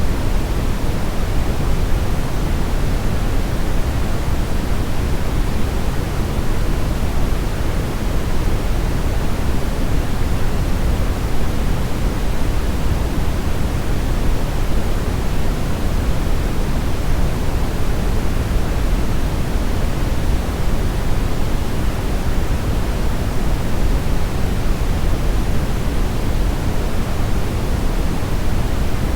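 Brown noise: a steady, deep hiss with most of its weight in the low bass, unchanging throughout.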